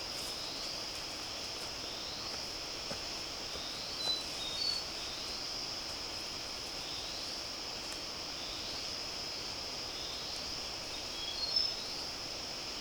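Steady high-pitched insect chorus droning without a break, with a faint rising note repeating about every second and a half. A few short clear chirps come through about four seconds in and again near the end.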